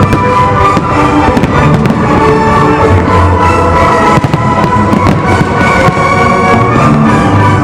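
Fireworks bursting in rapid, repeated bangs over loud music with a steady pitched accompaniment.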